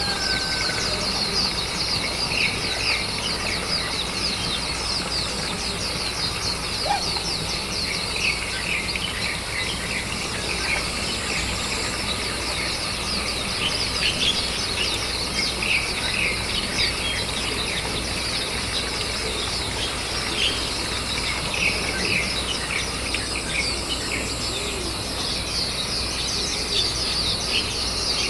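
Small birds chirping continuously in quick, high calls, over a steady high insect hiss.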